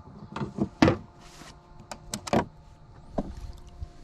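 A string of sharp knocks and clicks from fishing gear being handled, with a brief splash about a second in as the measured largemouth bass is let go.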